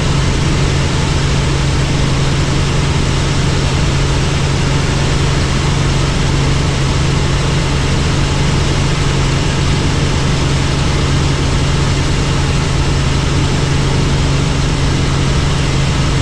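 Helicopter in flight, heard from inside the cabin: a steady, loud, unchanging drone with a strong low hum under a wide rushing noise.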